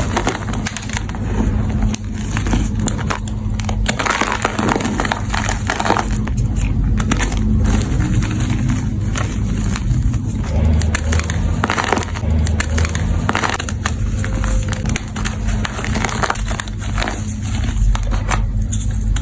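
Blocks of gym chalk being crushed and crumbled, a dense, irregular run of dry crunching and crackling.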